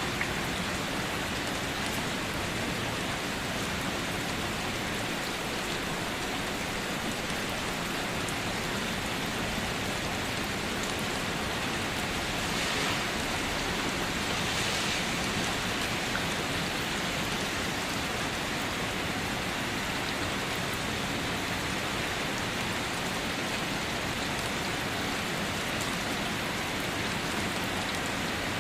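Steady rain falling on leaves and surfaces, an even hiss of many drops that swells slightly about halfway through.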